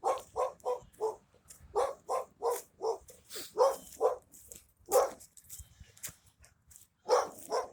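Ducks quacking in quick runs of short calls, about three to four a second, with brief pauses between runs.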